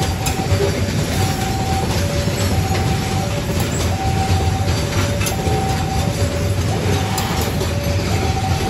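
Container freight wagons rolling past at close range, wheels rumbling and clattering over the rails. Throughout, a level-crossing warning alarm repeats a two-note high-low chime, a pair roughly every one and a half seconds.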